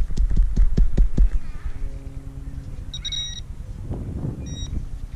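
A quick run of knocks and heavy thumps, then a low steady electronic tone about two seconds in and two short high beeps near the end, from metal-detecting gear signalling.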